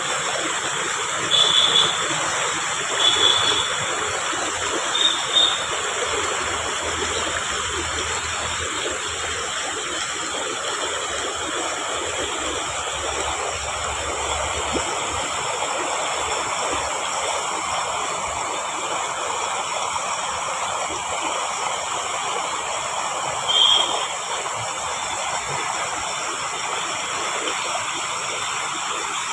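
Jungle stream running, a steady rush of flowing water. A few brief high chirps stand out over it, three in the first six seconds and one more near the end.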